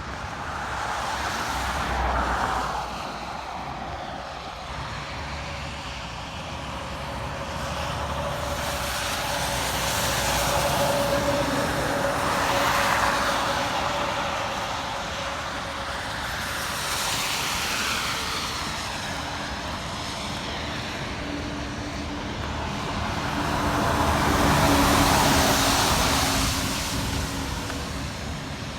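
Vehicles passing on a snowy road, one after another: the noise of each swells and fades, with a faint steady hum underneath.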